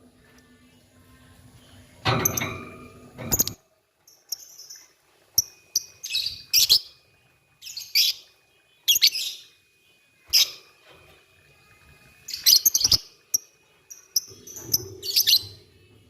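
Lovebirds calling in short, high-pitched chirping bursts, about a dozen scattered through the stretch with quiet gaps between them, some coming in quick pairs.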